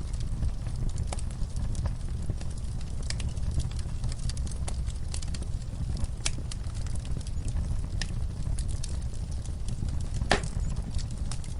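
Wood fire crackling in a fireplace: irregular pops and snaps over a steady low rumble, with one louder pop near the end.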